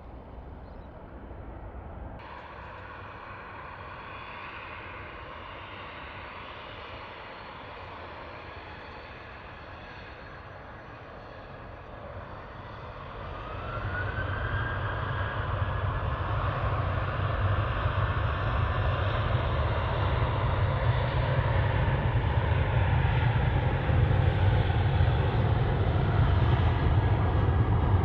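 Jet airliner engines: faint and steady at first, then about halfway through a whine rises in pitch and holds while a deep rumble grows louder toward the end, as the engines spool up.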